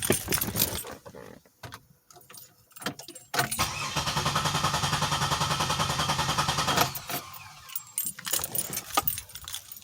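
2007 Pontiac Grand Prix GT's 3.8-litre V6 cranked over by the starter for about three and a half seconds, an even, fast rhythmic churning that stops suddenly without the engine catching: a crank-no-start, which the owner suspects comes from the fuel pump relay or its wiring. Keys jangle and click in the ignition before and after the crank.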